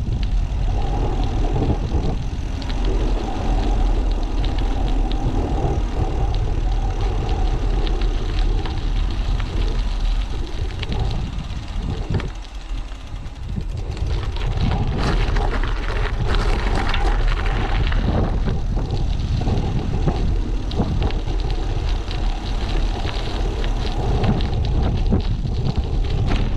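Wind buffeting the microphone of a bike-mounted action camera while riding, a loud, uneven low rumble, with road noise from the bike. It dips briefly about halfway through.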